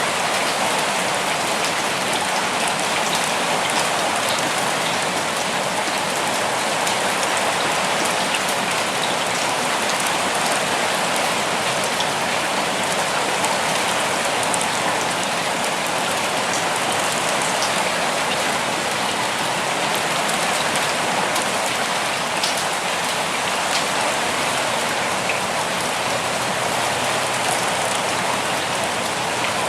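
Steady rainfall pattering on leaves and surfaces, an even hiss with scattered individual drop ticks.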